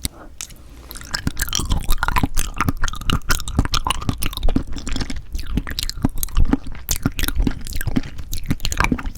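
Close-miked chewing of Cheonhyehyang citrus cup jelly: a dense run of wet clicks and smacks, quieter for the first second and then busier and louder.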